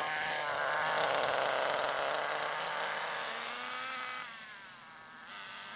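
Small .18 nitro glow engine of a 1/10 RC car, running rich during break-in, buzzing as the throttle is worked. Its pitch rises, falls sharply about four seconds in as the sound drops quieter, then climbs again near the end.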